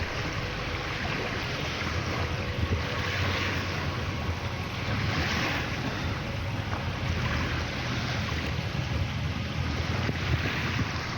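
Sea waves washing in, surging every few seconds, with wind buffeting the microphone.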